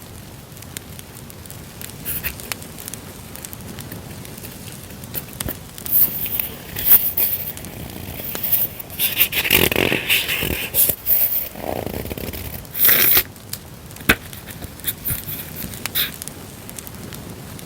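Paper journaling supplies and their packaging being handled, with irregular scraping and crinkling rustles, the busiest in the middle, over a steady crackle of a campfire sound track.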